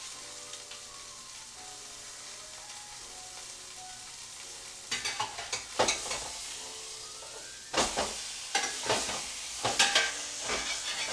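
Half a chicken sizzling as it browns in hot olive oil in a pan. From about five seconds in, a run of loud scrapes and clatters of a utensil against the pan, as the chicken is worked loose and turned over.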